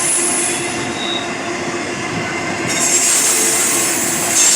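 Train rolling past on the rails, a steady rumble and rail noise with a brief thin wheel squeal about a second in.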